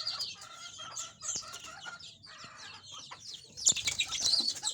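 Domestic canary singing: a fast run of high chirps, rolling trills and gliding notes, growing louder into a rapid trill near the end.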